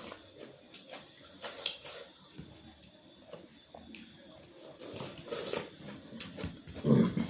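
Close-miked eating sounds: chewing and wet mouth clicks and smacks, with a louder, low, short mouth sound just before the end.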